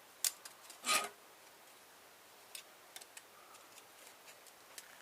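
Car stereo parts being pried and broken apart: a sharp click, then a louder crackling snap about a second in, followed by a few light ticks of parts shifting.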